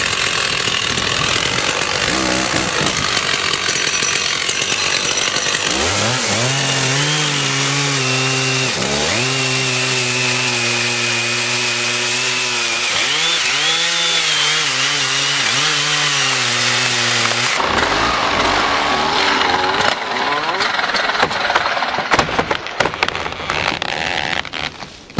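Chainsaw running loud through a cut in a big tree, the engine note dipping briefly twice as the chain bogs down under load. It cuts off a little over two-thirds of the way in, and sharp cracks and snaps follow near the end.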